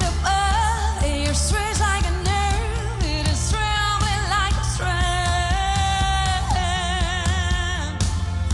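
Pop song with a lead singer over a band and a steady low beat. About five seconds in, the singer holds a long note with vibrato.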